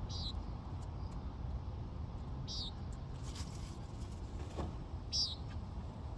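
A bird giving a short, high, falling chirp about every two and a half seconds, three times, over a low steady rumble, with a brief rustle in between.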